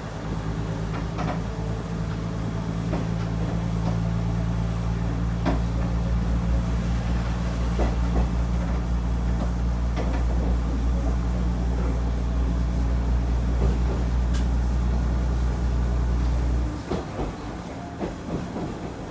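Diesel railcar engine running under power, a steady low drone, with scattered clicks and knocks from the wheels and car body. The drone drops away suddenly near the end, leaving the quieter running noise of the train.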